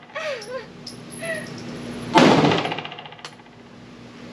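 A single 9mm pistol shot from a PSA Dagger compact about two seconds in, ringing and echoing off the walls of the indoor range. A short vocal sound comes just before it, and a small click follows about a second later.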